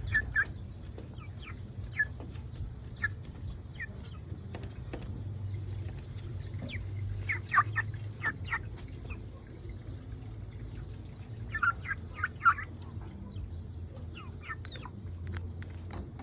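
Young Brahma and Cochin chickens, nine to ten weeks old, peeping and clucking in short scattered calls, with two bursts of several quick calls about seven and twelve seconds in.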